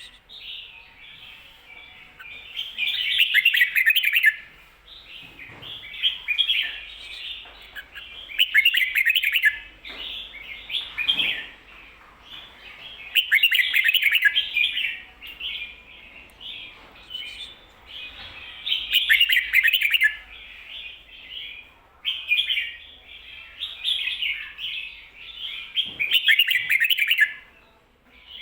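Red-whiskered bulbul singing: loud, quick warbled phrases about every five seconds, with softer twittering between them. The phrases are the 'double' (เบิ้ล) song type kept for teaching other bulbuls.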